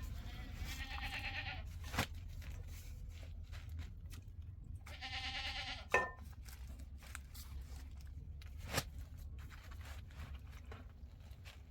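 Livestock bleating twice, each call about a second long with a quavering pitch, a few seconds apart. A few sharp clicks fall between them, over a steady low rumble.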